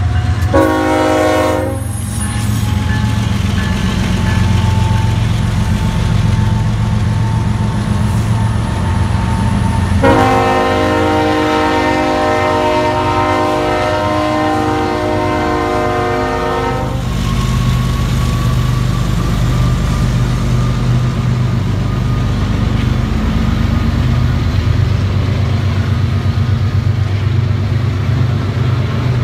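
Union Pacific freight train passing close by, its diesel locomotives rumbling steadily. The train horn gives a short blast about half a second in and a long blast from about ten to seventeen seconds in. Toward the end, the tank cars roll past on the rails.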